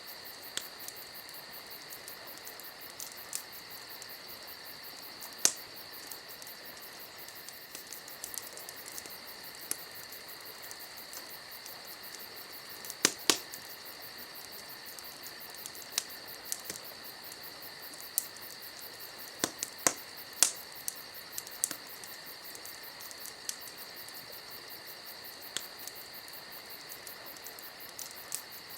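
Wood campfire crackling, with irregular sharp pops and a cluster of louder ones about halfway through, over a steady high chirring of insects.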